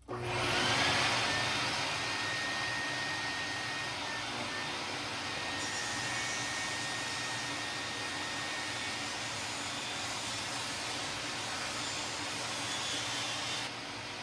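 A shop power tool's electric motor spins up with a rising whine and runs steadily with a high, even whine and rushing noise, stepping down slightly near the end.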